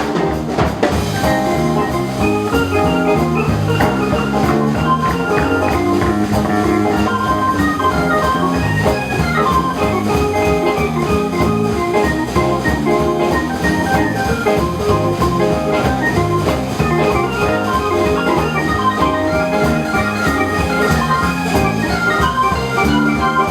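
Live band playing an instrumental break: a drum kit and bass under a busy lead solo of quick melodic notes.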